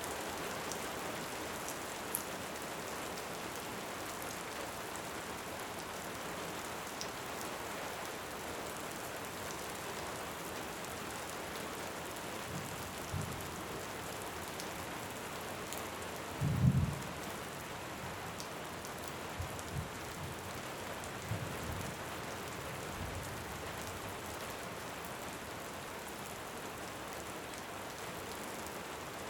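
Steady heavy rain hissing, with several short low rumbles of thunder through the middle, the loudest about halfway through. A few sharp crackles from a fireplace sit faintly on top.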